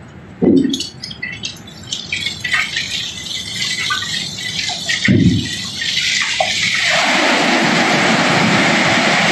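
Cobblestones being unloaded from a barge: two heavy thuds and scattered clinking of stones. About six seconds in, a steady rushing pour of rocks sets in.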